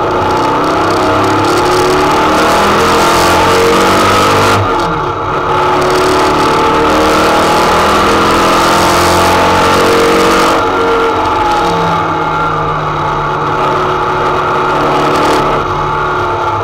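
KLAUS 2.6-litre Type 4 flat-four racing engine with Weber 48 IDA carburettors and a 4-into-1 header, heard from inside the Beetle's cabin, pulling hard with the revs climbing. The note falls away briefly about four and a half seconds in, again about ten and a half seconds in, and once more near the end, then climbs again.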